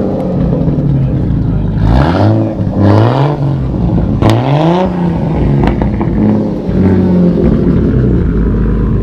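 A car engine being revved by hand, several throttle blips a second or so apart that climb and fall back, with a couple of sharp pops among them, then settling to a steady idle near the end.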